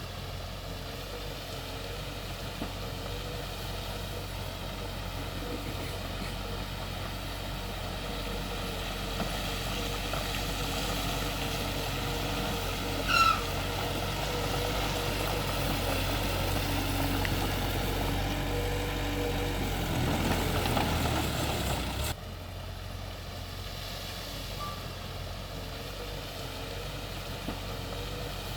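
Diesel engine of heavy earthmoving machinery running steadily. A short, loud, high squeal falls in pitch about halfway through. Later the engine gets louder for a couple of seconds, then drops suddenly to a quieter running sound.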